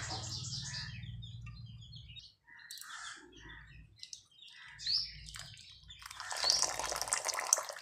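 Small birds chirping in the background: a run of short high chirps and quick rising calls, busiest in the last second and a half.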